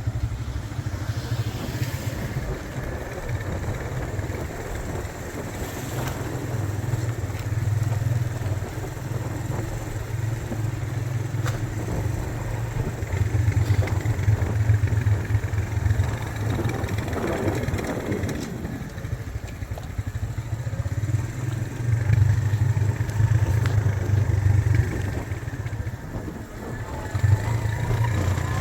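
Vehicle engine and road noise while driving: a steady low drone that swells and eases several times.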